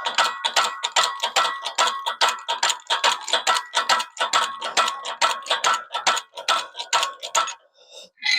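Rapid, even metallic clicking, about five clicks a second, with a light ringing tone, from a hand tool being worked on driveshaft U-joint removal. It stops shortly before the end.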